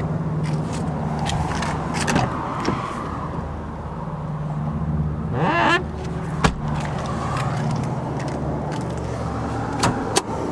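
2000 Toyota Camry's engine idling steadily, heard from inside the cabin. Sharp clicks and knocks come through, with a short rising squeal about five and a half seconds in.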